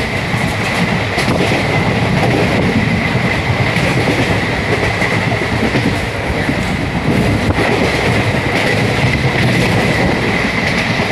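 Train running along the track: a steady, loud rumble with a few rail clicks and a constant high hum.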